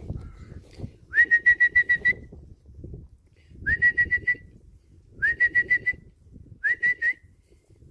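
A person whistling to call puppies to come: four short trilled whistles. Each starts with a quick upward scoop to a steady high pitch and is broken into rapid pulses.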